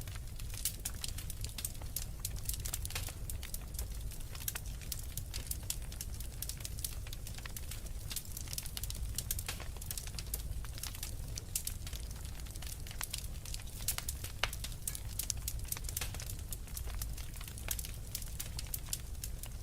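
Wood fire burning in a fireplace: dense, irregular crackling and small pops over a steady low rumble.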